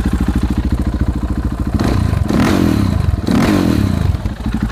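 KTM 690 Duke's single-cylinder engine, breathing through a Yoshimura carbon slip-on exhaust with a catalytic converter bypass, idling with a steady pulse, then blipped twice: two quick revs rising and falling, before it settles back to idle.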